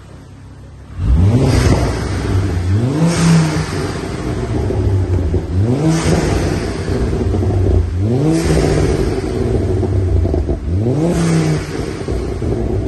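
Remapped Ford Focus ST's turbocharged 2.5-litre five-cylinder engine being revved on a dyno. From about a second in, the revs climb, hold and fall back five times, about every two and a half seconds, each climb with a brief rush of air noise.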